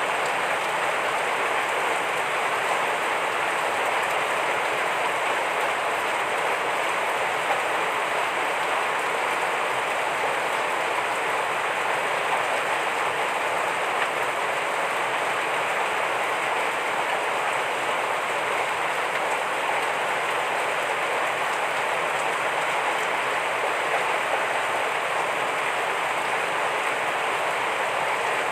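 Heavy rain falling steadily, an even hiss with no breaks or distinct drops standing out.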